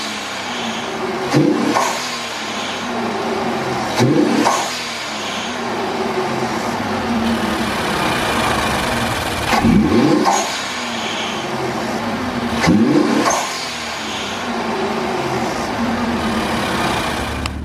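Infiniti twin-turbo V6 idling, blipped four times with quick rises and falls in pitch. Each blip is followed by a faint rush from the aftermarket HKS blow-off valve venting boost as the throttle snaps shut.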